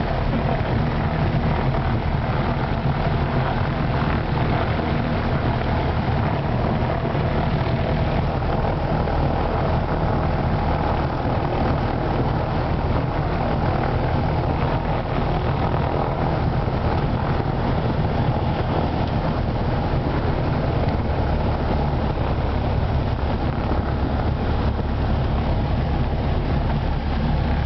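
Single-engine propeller airplane's engine and propeller running steadily, a constant drone with no change in pitch or level.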